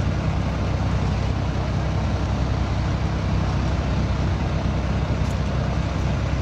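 A motor vehicle running steadily: a constant low engine rumble under a wash of noise.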